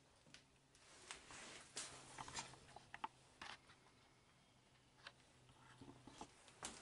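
Near silence: room tone with a faint low hum and a few faint, scattered small clicks and rustles.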